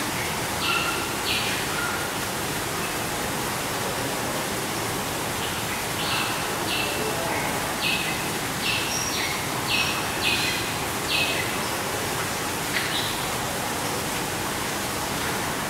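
Aviary birds chirping: short high calls, two near the start and a run of about eight between six and eleven seconds in, over a steady hiss.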